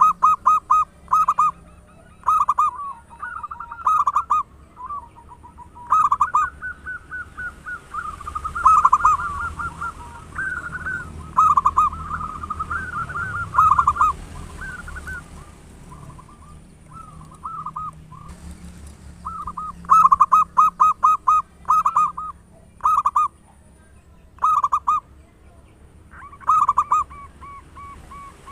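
Local zebra dove (perkutut) cooing loudly in repeated phrases of quick, short coos, with gaps of a second or two between bursts.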